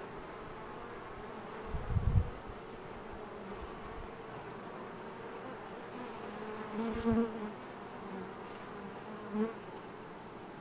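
Honey bees buzzing in flight around a freshly hived swarm, with single bees now and then passing close and louder. A brief low thump comes about two seconds in.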